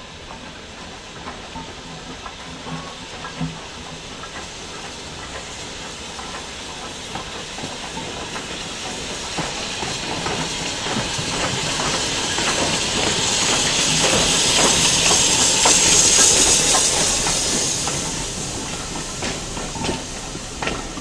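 Steam train passing, a steam hiss growing louder to a peak about three-quarters of the way through and then fading, with clicks of the wheels on the rails.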